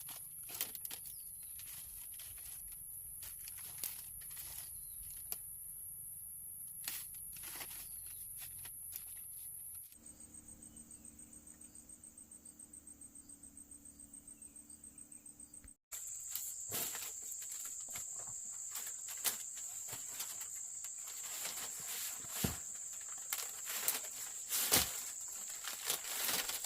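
A steady high-pitched insect chorus, changing pitch abruptly about ten and sixteen seconds in, with scattered clicks and rustles of handling on top. Between the changes the insect sound pulses rapidly, about seven times a second.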